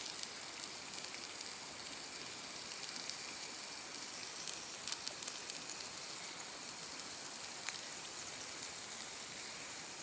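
Steady sizzling hiss with scattered small crackles and pops from a skillet over a wood campfire.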